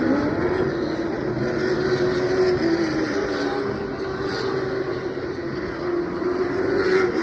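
Pack of late model race cars' V8 engines running on the track at a steady, moderate pace, a continuous drone whose pitch wavers only slightly.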